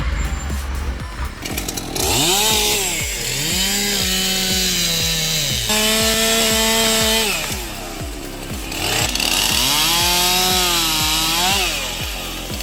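Chainsaw revving up and down, its pitch rising and falling several times, starting about two seconds in, over background music with a steady beat.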